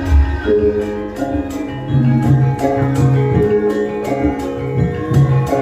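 Live band music: held melody notes over a steady percussion beat.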